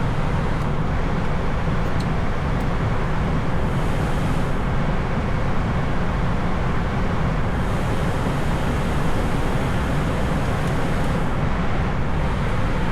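Steady cockpit noise of an airliner in climb: a constant low rumble of engines and rushing air with a hiss over it.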